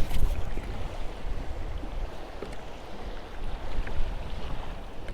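Wind buffeting the microphone with small waves lapping against a kayak's hull on a choppy sea, with a louder gust right at the start.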